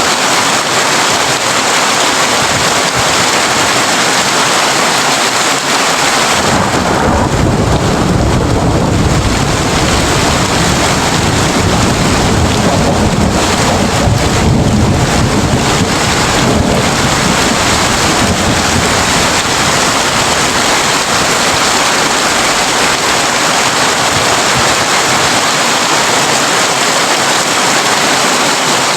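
Heavy rain drumming on a tin roof, steady throughout, with a long low roll of thunder that begins about six seconds in, rumbles for over ten seconds and slowly fades away.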